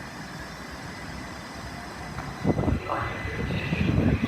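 Southern Class 377 Electrostar electric train pulling out of the station, with a steady hum at first and then a louder, uneven rumble of wheels and running gear building about halfway through as it gathers speed.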